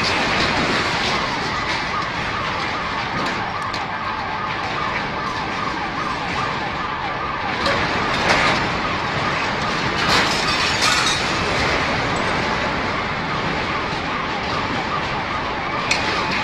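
An alarm siren warbling rapidly up and down over loud, steady noise.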